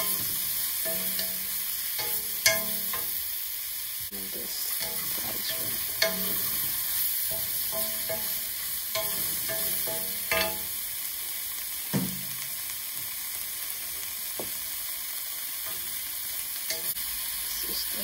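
Mushrooms, green chilies and dried shrimp sizzling in oil in a stainless steel skillet while being stirred. A few sharp knocks of the stirring utensil against the pan, about four times.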